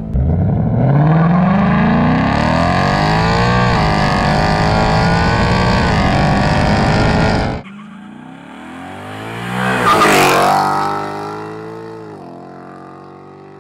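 Ford Mustang GT's 5.0 V8 with an X-pipe exhaust under full-throttle acceleration, its pitch climbing steeply and then dipping and climbing again through upshifts; it cuts off suddenly about seven and a half seconds in. Then a car rushes past, rising and falling in pitch, loudest about ten seconds in, and fades away.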